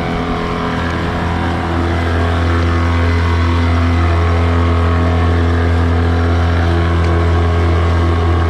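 9.9 hp Mercury kicker outboard running steadily near full throttle, pushing a heavily loaded boat of about 5,000 pounds. It is a steady low drone that gets a little louder over the first two seconds.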